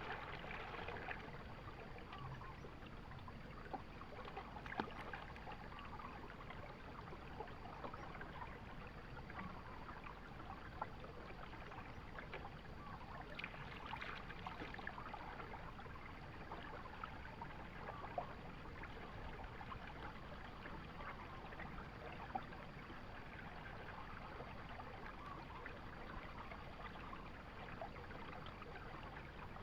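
Steady sound of running water, with many small scattered drips and splashes and a few sharper ticks.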